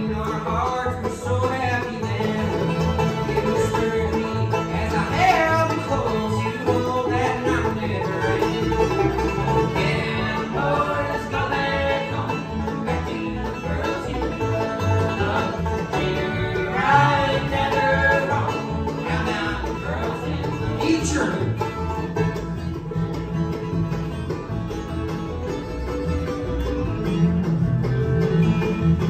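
Live acoustic bluegrass band playing a tune, with banjo and other plucked strings.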